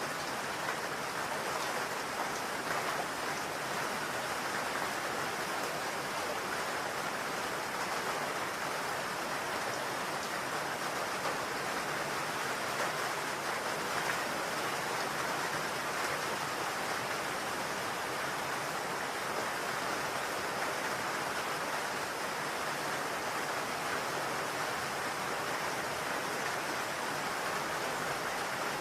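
Steady rain falling on a roof, an even, unbroken hiss of drops without separate taps.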